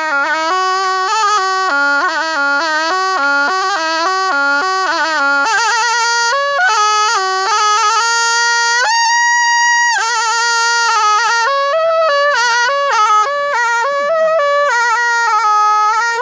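Thai pi, a reed oboe, played solo: a fast, ornamented melody that moves up to a higher register about five seconds in, with one long held note near the middle before the quick runs resume.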